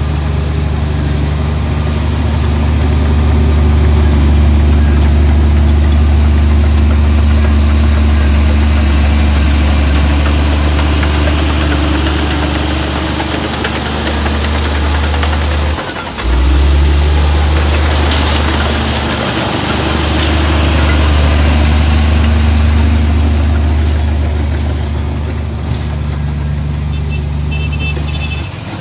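Heavy diesel earthmoving machine running steadily under load with a deep, even engine note. It drops out for a moment about halfway through, then picks up again, with a short burst of rough, rattling noise a couple of seconds later.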